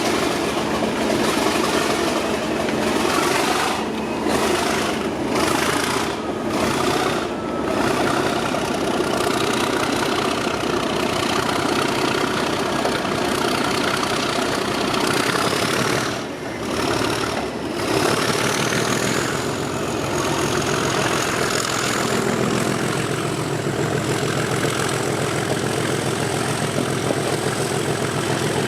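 English Electric 12CSVT diesel engine of Class 37 locomotive 37109 working a train, heard from behind the locomotive. A thin high whine rises in pitch about halfway through.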